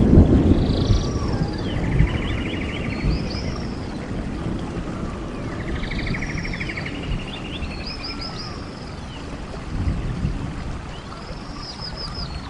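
Wind rumbling in gusts, loudest at the start and easing off, with a bird singing over it: a phrase of quick arched chirps and a fast trill, repeated about every five seconds.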